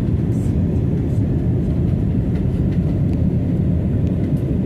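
Steady low rumble of an Airbus A320 airliner's engines and airflow heard from inside the cabin, with a few faint clicks.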